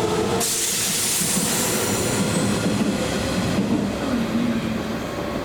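Kintetsu electric commuter train running at the station platform, with a loud hiss that starts suddenly about half a second in and cuts off about three seconds later.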